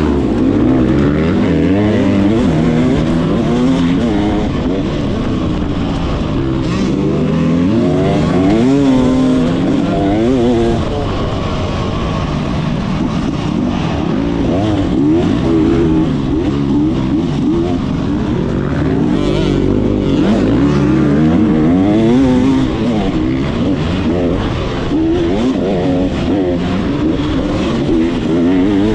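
Motocross bike engine revving hard, its pitch rising and falling again and again through the gears.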